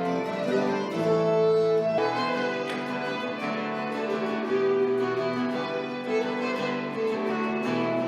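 Instrumental medieval-style dance music: a bowed fiddle playing a melody over plucked strings.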